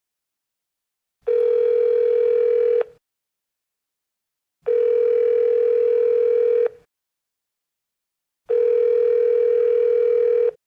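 Telephone ringback tone of an outgoing call ringing on the line: three long steady beeps, each about two seconds, with a couple of seconds of silence between them.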